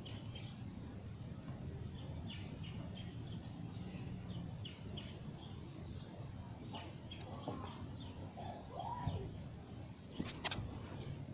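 Small bird chirping over and over in short high notes, with a few lower sliding notes partway through, over a steady low outdoor rumble; a sharp click near the end.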